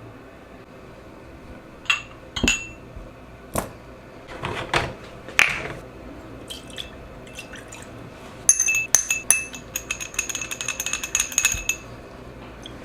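Small hard parts clinking against a ringing container: a few separate clinks, then a quick jingling rattle for about three seconds near the end.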